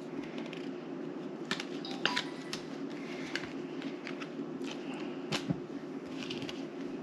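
Playing cards handled and laid on a table: scattered light clicks and taps, a few sharper ones about two and five seconds in, over a steady low hum.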